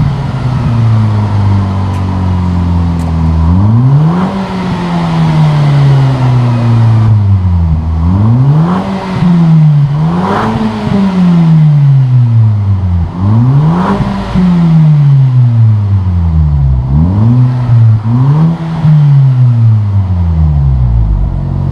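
Volkswagen Bora GLI's turbocharged 2.0-litre four-cylinder, breathing through a Borla cat-back exhaust, revved repeatedly, about eight times. Each rev climbs quickly and then falls away slowly.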